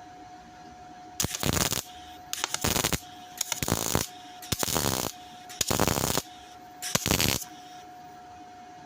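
Welding on a steel car wing panel: six short crackling welding bursts, each about half a second long and about a second apart, as the panel is stitched in short runs.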